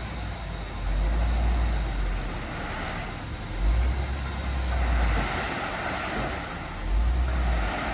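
Heavy diesel earthmoving machinery running, with a low rumble that surges and drops away three times.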